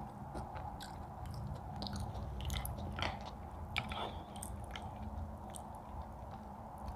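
People chewing and biting food close to the microphone, with scattered short wet mouth clicks over a steady low background hum.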